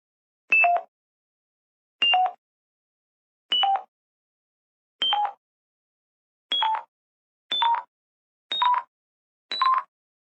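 A series of eight short electronic blips, each a high note dropping to a lower one. They come faster and climb steadily in pitch, with silence between them.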